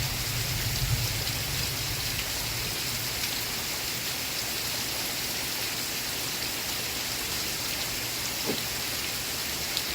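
Steady rain falling, an even hiss of many drops; a low rumble underneath fades out after about the first second.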